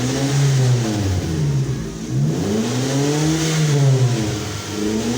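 Suzuki Swift engine free-revving through an aftermarket NDK DK 03 V3 muffler, with the stock header and resonator. The pitch climbs and falls with each blip of the throttle: one rev peaks and drops away in the first second and a half, a second climbs and falls between about two and four and a half seconds in, and a third starts near the end.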